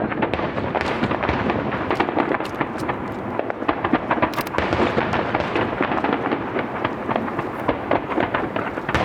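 Aerial fireworks finale: large No. 10 (about 30 cm) shells bursting together, making a dense, continuous barrage of bangs and crackling with no gaps.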